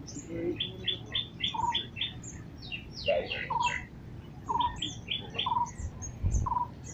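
Several birds calling at once: a run of quick repeated chirps, high short chirps, and a lower short trilled note repeated about once a second. A low rumble comes in near the end.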